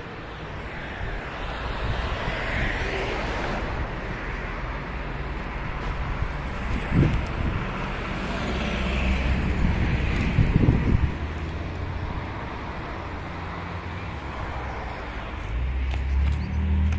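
Heavy vehicle's diesel engine running with road traffic noise, with brief deeper surges about seven and ten seconds in.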